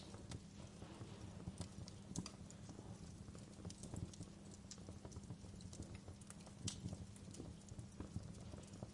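Wood campfire crackling, with irregular sharp snaps and pops over a low steady rumble.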